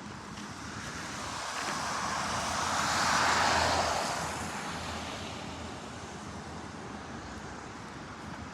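A road vehicle passing by, its tyre and road noise swelling to loudest about three seconds in, then fading away.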